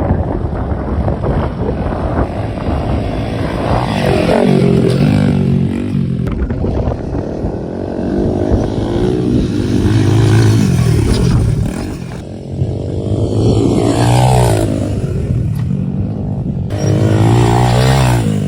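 Pit bike engine revving hard as it is ridden, its pitch climbing and dropping again several times as the throttle is opened and closed.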